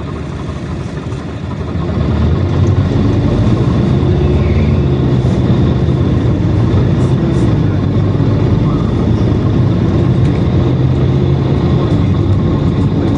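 PAZ-422320-04 Citymax 9 city bus running, heard from inside the passenger cabin: the engine and ride noise step up in loudness about two seconds in, as the bus gathers speed, then hold steady.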